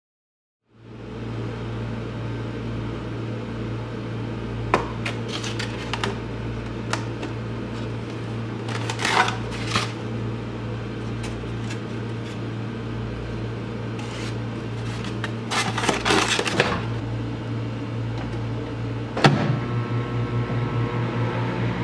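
Microwave oven running with a steady low hum, with scattered clicks and rattles. About nineteen seconds in there is a sharp click, and the hum turns into a rapid pulsing buzz.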